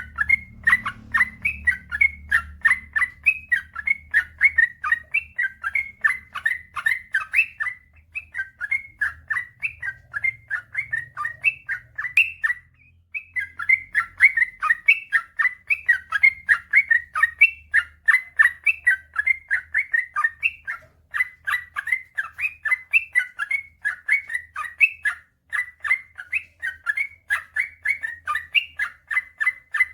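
Yellow-vented bulbul (trucukan) singing a long, rapid run of short warbled notes, several a second, pausing only briefly twice.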